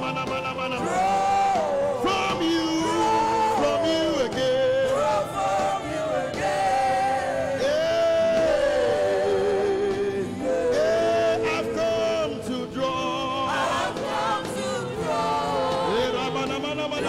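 Worship music: voices singing a slow, held melody with wavering notes over instrumental backing.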